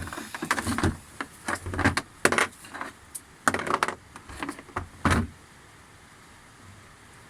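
Clattering knocks of metal parts and tools being handled during assembly of a sheep-shearing machine's motor: a dozen or so uneven knocks over about five seconds, then they stop.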